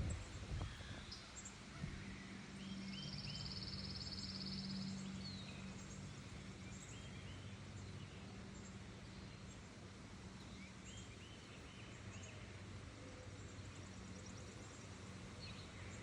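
Birds chirping in short repeated calls, with a buzzy trill about three seconds in, over a faint steady low hum.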